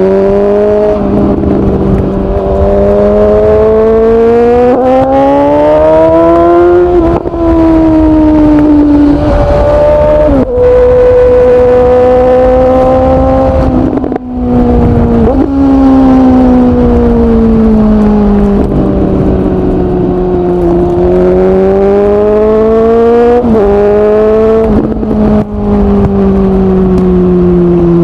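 2019 Suzuki GSX-S750 inline-four running through a Yoshimura SQ11 exhaust with no dB killer and the catalyst removed, under way. The revs climb and ease off, broken by several quick gear changes where the pitch steps abruptly.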